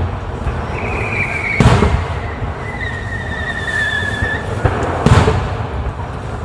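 Aerial firework shells bursting: two loud booms about three and a half seconds apart, with thin high whistling tones in between.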